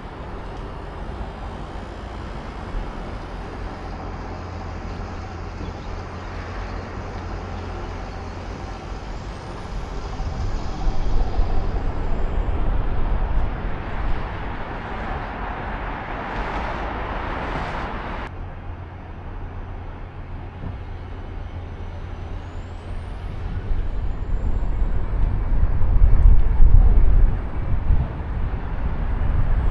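Road traffic: vehicles running with a steady low rumble, a louder rushing passage in the middle that cuts off suddenly, and a heavier low rumble near the end.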